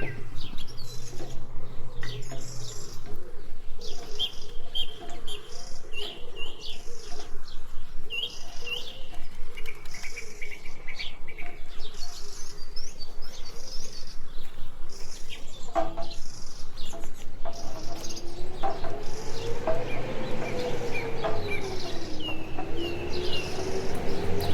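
Small birds chirping, many short repeated calls throughout. A low tone slowly rises and falls in pitch in the last few seconds.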